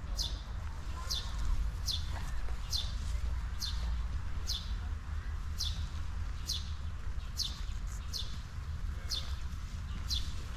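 A bird calling over and over, one short high chirp that falls in pitch, repeated steadily about once a second, over a steady low rumble.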